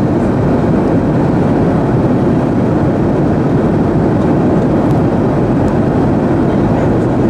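Steady, loud rushing noise from a Boeing 737-900ER airliner, with no distinct knocks or changes.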